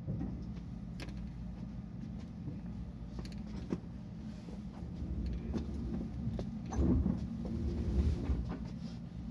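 Interior of a stopped JR West 223 series electric train: a steady low hum from its onboard equipment, with scattered clicks and light knocks. About two-thirds of the way through there is a louder stretch of low rumble and knocking.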